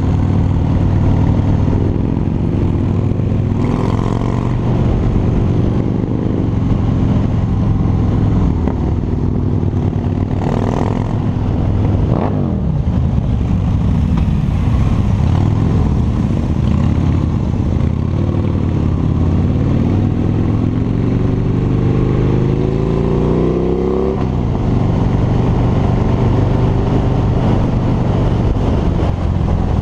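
Harley-Davidson V-twin motorcycle engine running steadily under way. About three-quarters of the way through, the revs climb as it accelerates, then drop back.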